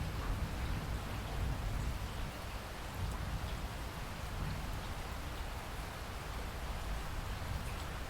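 Steady rain falling, with a constant low rumble underneath and faint scattered drop ticks.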